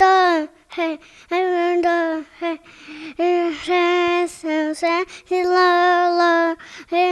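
A high-pitched voice, child-like or female, singing held notes at a nearly steady pitch in short phrases with brief breaks between them.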